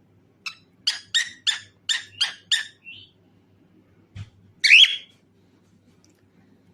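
Cockatiel calling: a quick run of about seven short, sharp chirps over two seconds, then one louder, longer call about five seconds in.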